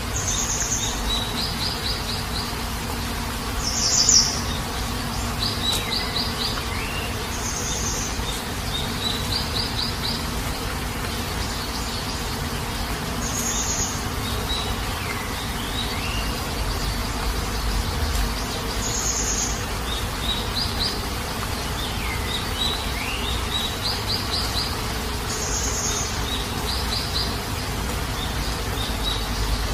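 Steady rain falling, with birds calling over it: short high chirps, quick trills and rising whistles that recur every few seconds, one call louder about four seconds in.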